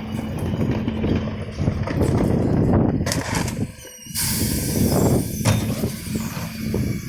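Refuse truck at work, its engine and hydraulic lifters running hard with knocks and clatter as wheelie bins are handled. About four seconds in, a sudden loud hiss of air breaks in over the machinery.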